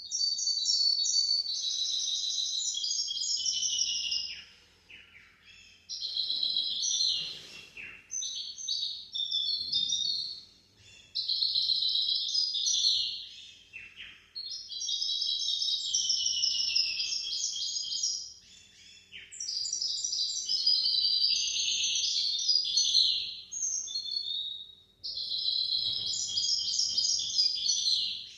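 A hybrid goldfinch × canary (mule) singing long phrases of rapid, varied high twittering and trills, with short pauses between phrases.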